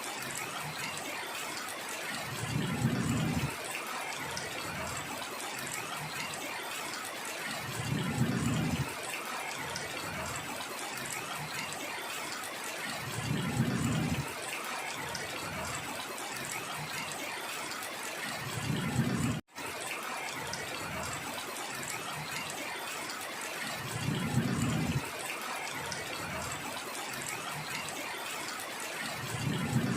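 Heavy rain falling in a steady hiss, with a short, louder low surge about every five and a half seconds. The sound cuts out for an instant about two-thirds of the way through.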